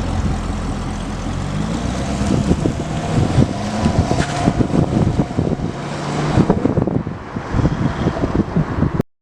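2007 Chevrolet Corvette's 400 hp LS2 V8 running as the car is driven, engine pitch shifting up and down, with wind buffeting the microphone. The sound cuts off suddenly near the end.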